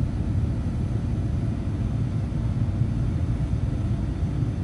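Passenger train running along the line, heard from inside the carriage as a steady low rumble.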